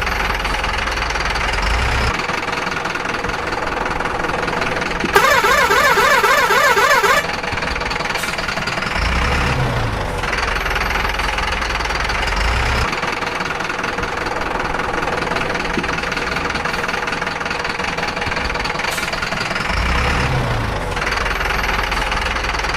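Cartoon engine sound effects of construction vehicles running steadily, with low rumbles swelling now and then. A warbling, siren-like tone sounds for about two seconds, about five seconds in.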